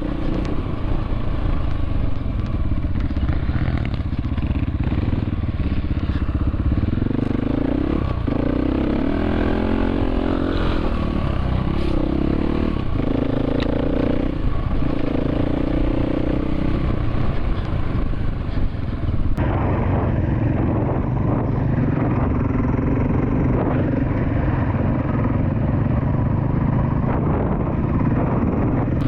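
Dirt bike engine running under load as the bike is ridden, its pitch rising and falling with throttle and gear changes.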